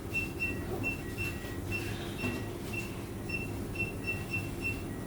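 A string of short, high electronic beeps, irregularly spaced at about two to three a second, over a steady low machine hum.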